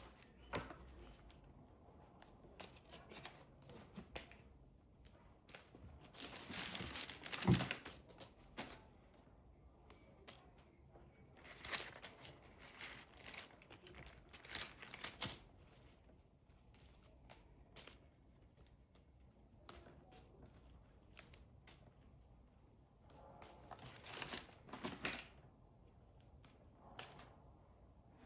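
Paper or plastic wrapping being handled, crinkling and tearing in short intermittent bouts, with a low knock about seven and a half seconds in.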